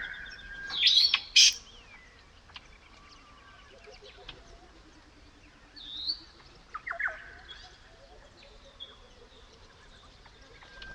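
Several different birds calling in a natural soundscape, some whistled calls gliding in pitch and one lower call repeated in a falling series, loudest about a second in and again around seven seconds.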